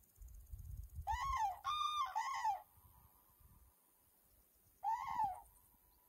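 A bird calling outdoors in a meadow: three short, clear calls in quick succession, then a fourth a couple of seconds later, with wind rumbling on the microphone for the first second and a half.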